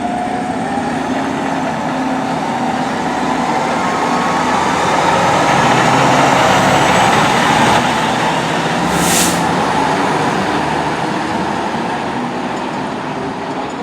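Fire truck driving past, its engine and road noise building and then fading away, with a short sharp hiss about nine seconds in.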